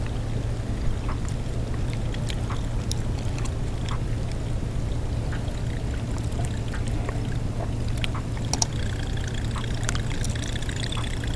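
Water trickling and sloshing, with scattered light clicks and ticks over a steady low hum.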